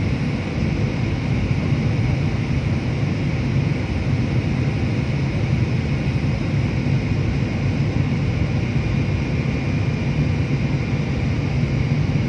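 Steady drone of an aeroplane cabin in flight, engine and airflow noise with a faint high whine running through it.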